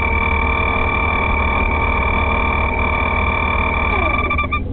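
BMW 325iX's straight-six engine idling, heard from inside the cabin as a steady low rumble under a steady high whine. Near the end the whine falls in pitch and cuts off.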